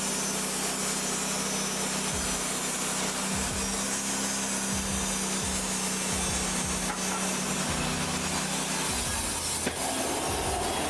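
Power saw cutting through wood, with a steady hiss of the cut over a constant motor hum; the hum changes about nine seconds in, and there is a single sharp click near the end.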